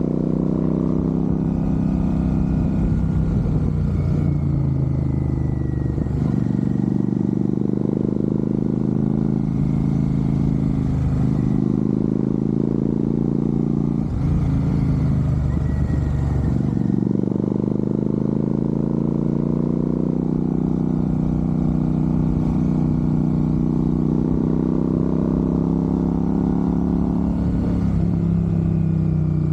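Royal Enfield Super Meteor 650's parallel-twin engine running steadily, its pitch rising and falling a few times.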